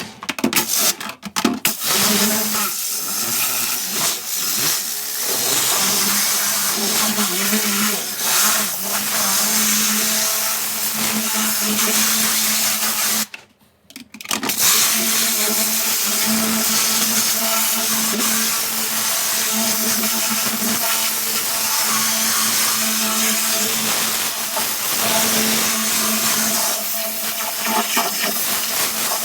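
Kärcher high-pressure washer running, its motor humming steadily under the hiss of the water jet. It stops for about a second near the middle, then starts again.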